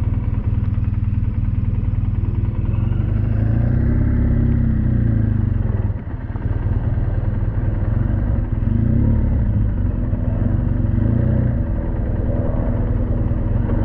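BMW R1200GS boxer-twin engine running under way, its pitch rising and falling with the throttle, with a short drop in level about six seconds in.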